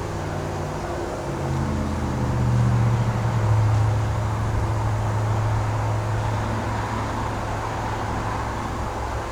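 A low, steady mechanical hum that swells about two to four seconds in and then eases off.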